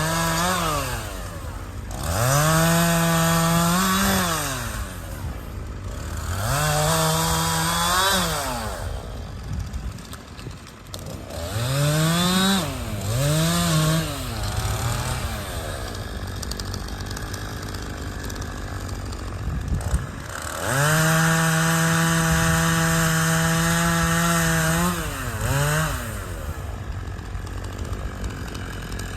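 Chainsaw engine revved in short bursts several times, dropping back to idle in between, then held at high speed for about four seconds before a last quick blip.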